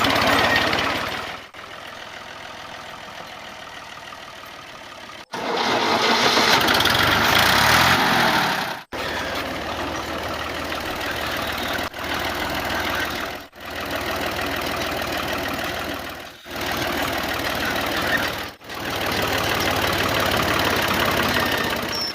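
A small engine running, heard in several short clips joined together, each a little louder or quieter than the last.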